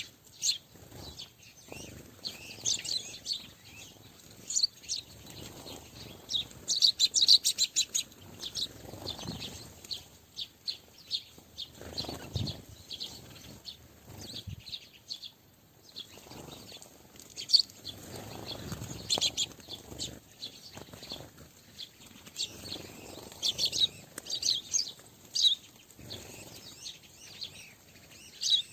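Small birds at a feeder chirping in many short, quick high calls, with occasional wing flutters.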